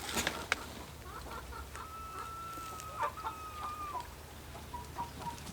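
Farm chickens calling in the background: two long, thin, drawn-out calls a little before the middle, then a few shorter ones.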